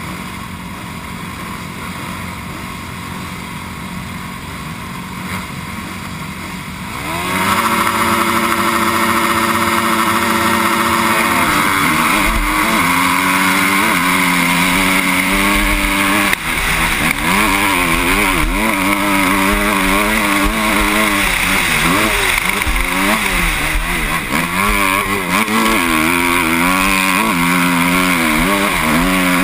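Motocross bike engine, quieter and steady for the first seven seconds, then revving sharply and loudly. After that it rises and falls in pitch over and over as the throttle opens and closes and the gears change.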